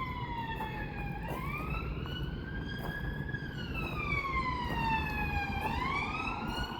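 Police car siren wailing, its pitch sliding slowly up and down, falling to a low point about a second in and again about five and a half seconds in.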